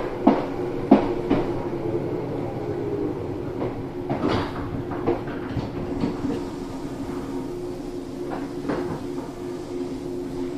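Running noise of an Izukyu 2100 series train heard at the gangway between cars: a steady rumble with a few held, unchanging tones. Over it come irregular metallic clanks and knocks from the steel gangway floor plates shifting against each other, several in the first second and more a few seconds in.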